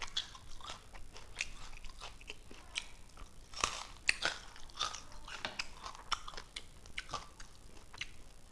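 A person chewing food close to the microphone with the mouth open: irregular wet smacking and small crunching clicks.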